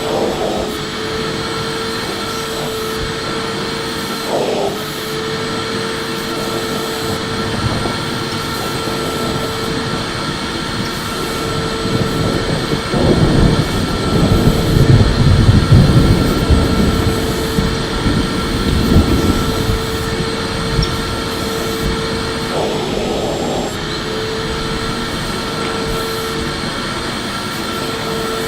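Electric vacuum cleaner running continuously with a steady motor whine. Around the middle the sound grows louder and rougher for several seconds, then settles back to the steady whine.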